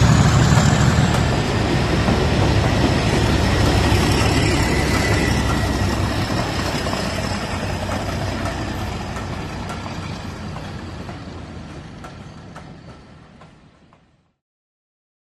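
Model diesel locomotive running on the layout: a steady diesel engine rumble mixed with track noise, which fades gradually and ends in silence about 14 seconds in.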